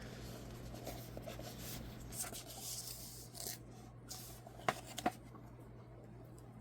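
Faint rustling and rubbing of a paper wrapping sheet being handled and pulled off a tablet, with two sharp clicks close together a little after halfway.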